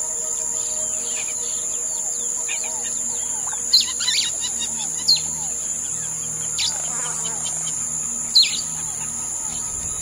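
Forest birds calling, with several short, sharp chirps that sweep down in pitch, the loudest about four, five and eight seconds in. Under them is a steady high-pitched insect drone.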